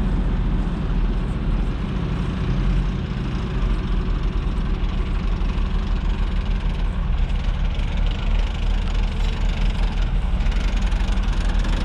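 Heavy truck engine running steadily at low revs, with an even pulsing in its loudness from about four seconds in.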